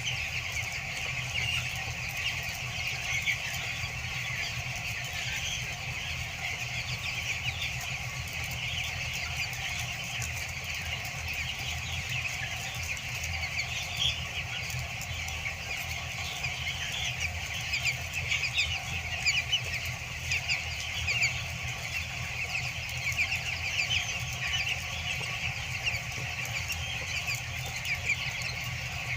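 A large flock of two-week-old broiler chicks peeping all together in a continuous dense chatter of short high chirps, over a steady low hum.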